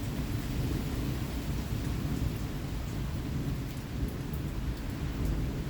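Thunder rumbling low and steadily through the whole stretch, with rain falling and faint raindrop ticks.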